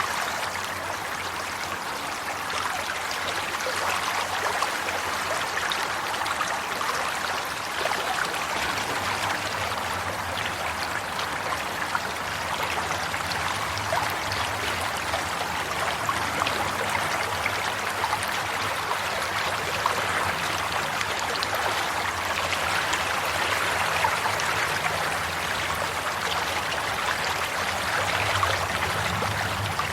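Flowing stream water running and trickling steadily, with a constant bubbling splash.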